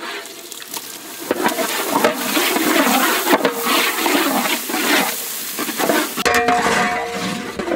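Chopped tomatoes sizzling in hot oil in a large cooking pan, stirred through with a ladle. The sizzle is a steady, loud hiss.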